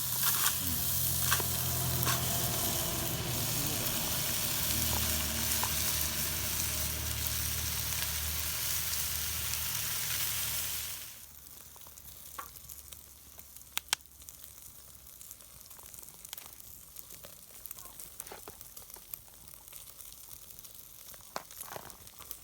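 Food sizzling as it fries in a pan, loud for about eleven seconds, then dropping suddenly to a much quieter level with occasional small clicks and crackles.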